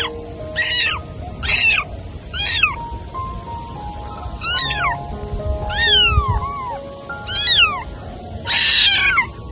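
A cat meowing again and again, about one meow a second, each call sliding down in pitch.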